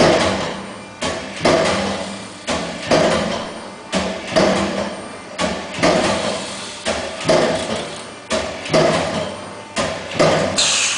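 Hydraulic travelling-head die-cutting press cutting in a steady cycle: a pair of sharp knocks about every one and a half seconds, each followed by a fading hiss. A brief higher hiss comes just before the end.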